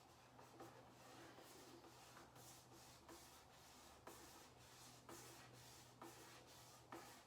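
Faint handling of plastic toy wrestling-ring parts: light rubbing and scattered small clicks as pieces are fitted together, over a steady low hum.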